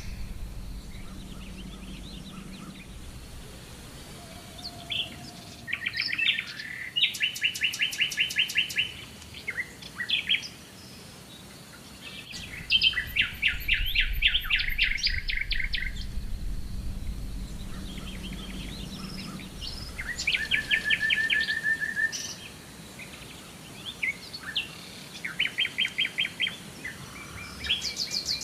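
Songbirds singing: several phrases of fast, trilled chirps, each lasting a couple of seconds, with short pauses between them.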